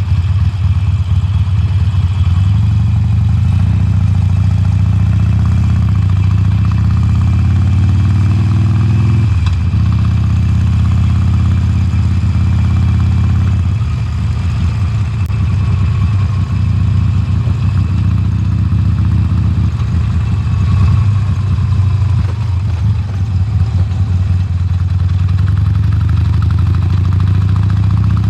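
Harley-Davidson Sportster Forty-Eight's air-cooled V-twin on its stock exhaust, running under way. Its pitch rises steadily as it pulls for several seconds, drops suddenly about nine seconds in, then runs fairly steady at lower revs.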